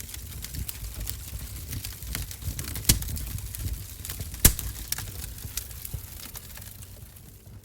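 Wood fire in a stove crackling: scattered small snaps over a low rumble, with two sharp loud pops about three and four and a half seconds in.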